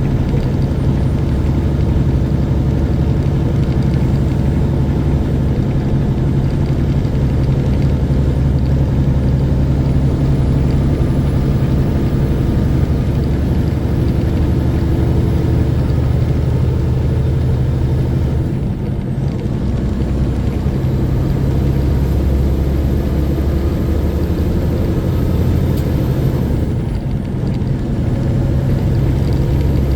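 Semi truck's diesel engine running steadily under way, with a low, even drone. The engine sound dips briefly twice, once about two-thirds of the way through and again near the end.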